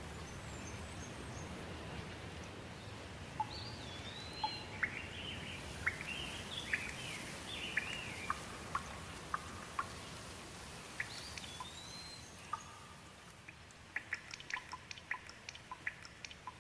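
Steady rain with birds calling over it: a run of whistled, sliding chirps in the first half. Near the end the rain thins and gives way to many scattered drips.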